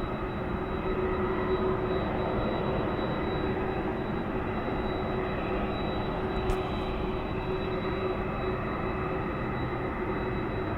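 Jet engines of a Boeing 767-300 airliner running steadily at low taxi power: a steady whine over a broad rumble.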